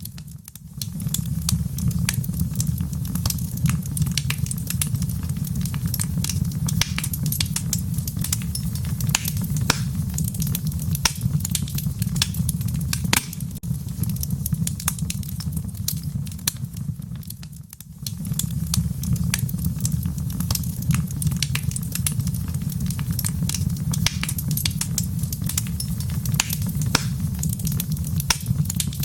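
Wood fire burning in a stone fireplace: a steady low rumble of flames with frequent sharp crackles and pops throughout.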